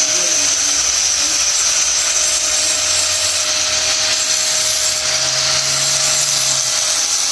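A power tool running steadily: a constant whine under a loud hiss, with no change in speed.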